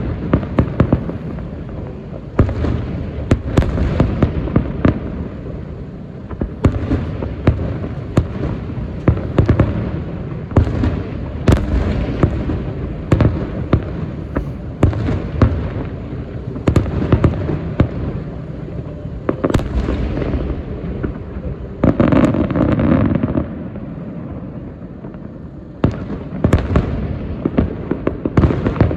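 Aerial fireworks shells bursting: dozens of sharp reports in quick succession over a continuous rumble. There is a denser stretch a little after the middle, then a short lull before more bursts near the end.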